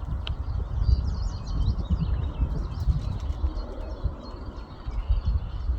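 Birds chirping and twittering in quick, high calls over a strong low rumble of wind on the microphone.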